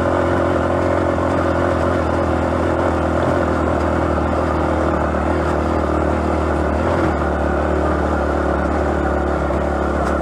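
Yamaha XTZ125's single-cylinder four-stroke engine running at a steady pace while the motorcycle is ridden, heard from the bike-mounted camera.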